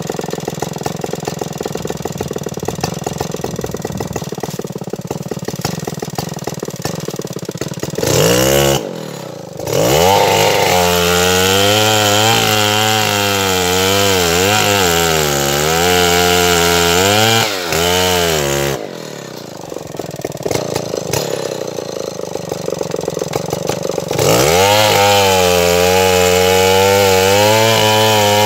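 Stihl 070 two-stroke chainsaw idling, then revved to full throttle about eight seconds in, its pitch sagging and recovering as it works under load in acacia wood. It drops back to idle for a few seconds and revs up again near the end.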